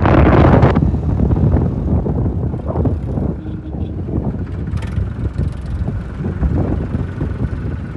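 Diesel tractor engine running with a steady low rumble, and wind buffeting the microphone, strongest in the first second.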